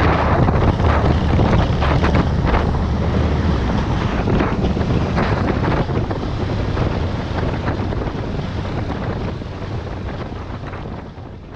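Wind rushing over the microphone of a moving motorcycle, with the engine's low drone underneath; the sound gradually fades out near the end.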